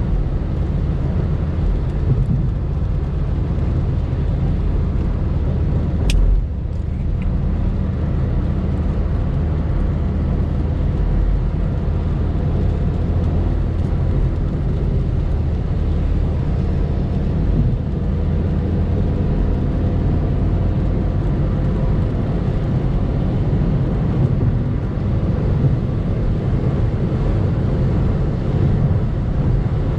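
Car engine running steadily with a low drone, and a single sharp click about six seconds in.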